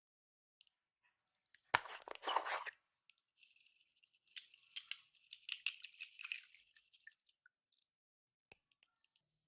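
Slime being mixed with makeup and glitter by hand: a short crunchy squish about two seconds in, then several seconds of fine, sticky crackling, with a few small clicks near the end.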